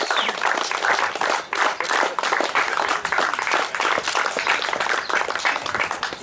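Audience applauding, many hands clapping, tapering off toward the end.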